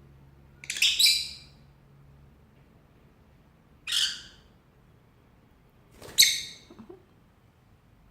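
Pet lovebird giving three short, high-pitched calls a few seconds apart.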